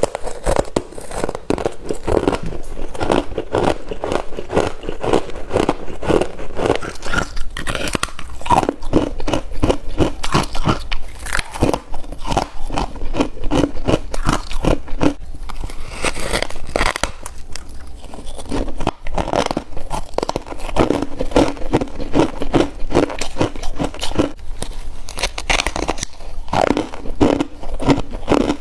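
Freezer frost being bitten and chewed close to the microphone: continuous crisp crunching with no pauses.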